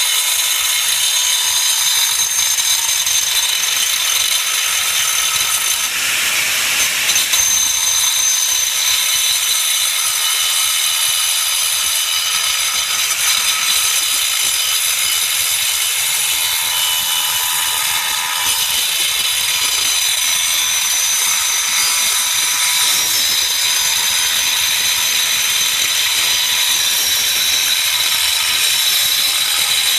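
Doliz BA370 720-watt angle grinder running steadily under load, a high whine over the grinding noise, with a brief change in tone about seven seconds in.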